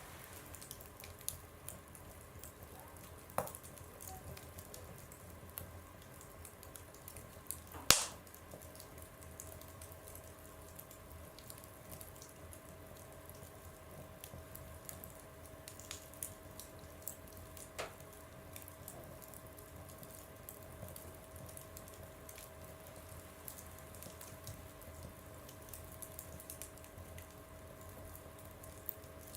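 Wood fire burning in a stove, crackling with scattered sharp pops over a soft hiss, one much louder pop about eight seconds in. A faint steady whistle sets in just after that pop.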